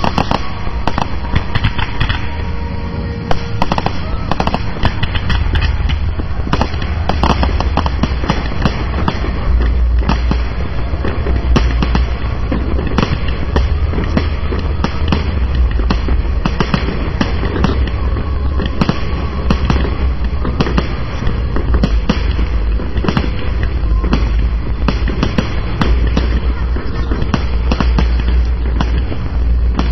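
Fireworks display in full flow: constant rapid cracks and bangs from bursting shells over heavy deep booming.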